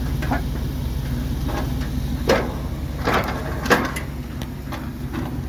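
The 1994 GMC Yukon's engine running steadily as its snowplow blade pushes into a tree, with several sharp cracks of wood snapping, the loudest a little over two seconds in and again near four seconds in.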